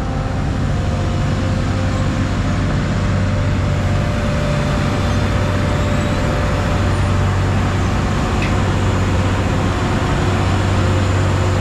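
Heavy diesel engines running steadily: a constant low hum under a broad rumble.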